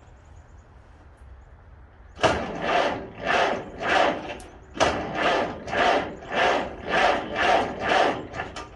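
The starter cranks the 1949 Farmall H's four-cylinder gasoline engine in two bursts, beginning about two seconds in, with a rhythmic chug of about two compression strokes a second. The engine does not catch.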